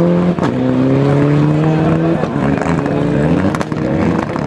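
Mitsubishi Lancer Evolution rally car engines held at high revs. The pitch stays steady at first, then falls and rises as the throttle is worked, from a little over two seconds in. A sharp click about half a second in.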